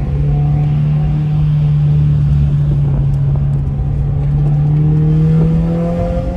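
2019 Subaru WRX's turbocharged flat-four engine with a muffler-deleted exhaust, heard from inside the moving car: a steady drone whose pitch climbs slowly over the last few seconds as the car gently accelerates.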